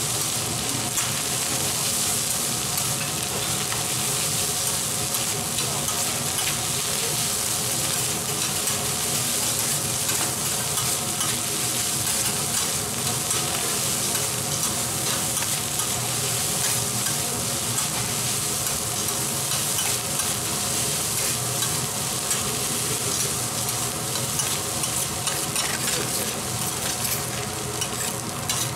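Fried rice sizzling on a hot flat-top teppanyaki griddle while a metal spatula stirs, chops and scrapes it against the plate: a steady frying hiss with frequent clicks and scrapes of metal on the griddle.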